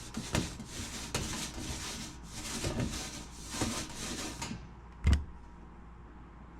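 Wipe rubbed back and forth over a freshly scraped, rusty metal panel, cleaning off loose particles: a run of quick rubbing strokes, about two a second. They stop after about four and a half seconds, and a low thump follows a little later.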